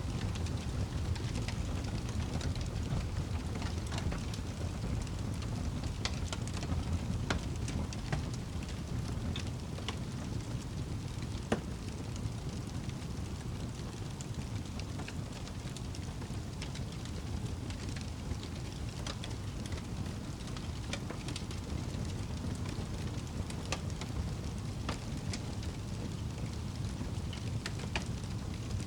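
Campfire crackling, with scattered sharp pops and one louder pop about a third of the way in, over a low steady rumble.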